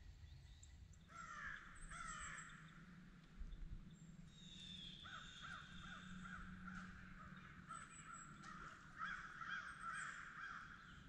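Faint bird calls: two falling calls about a second apart near the start, then a long run of quick repeated calls from about five seconds in until near the end.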